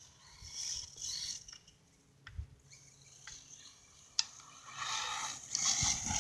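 Redcat MT10e electric RC monster truck running over rough ground, heard faintly in short bursts of motor and tyre noise, with a sharp click about four seconds in as it hits the bumps.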